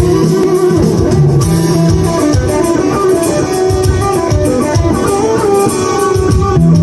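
Guitar music, with plucked guitar notes over a steady beat.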